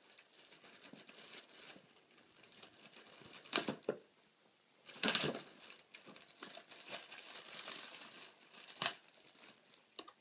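Sealed plastic packaging around a 6.5-inch speaker being cut and torn open. It crinkles throughout, with three louder, sharp rips or crackles at about three and a half, five and nine seconds in.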